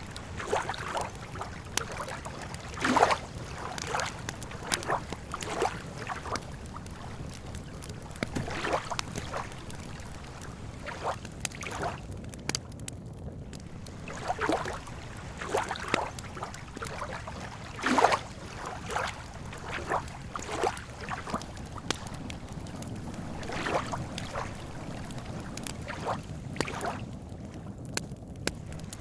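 Campfire crackling and popping at irregular intervals over a low steady rumble, with two louder pops about 3 and 18 seconds in.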